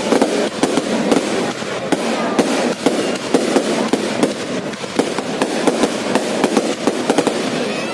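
New Year's fireworks going off: a dense, continuous crackle of many overlapping bangs and pops with no pause.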